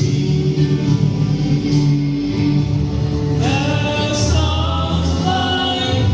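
Gospel vocal quartet singing held notes in harmony; a higher voice glides up and comes in over the others about halfway through.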